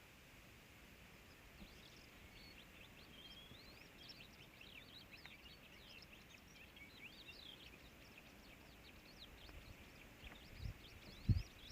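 Faint twittering of small birds: many quick, short chirps over a steady background hiss. A couple of low thumps come near the end.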